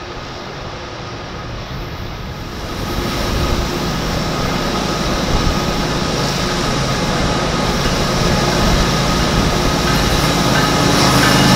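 Eastbound CSX freight train led by three diesel locomotives approaching. The engine rumble and the noise of the wheels on the rails grow steadily louder as it nears.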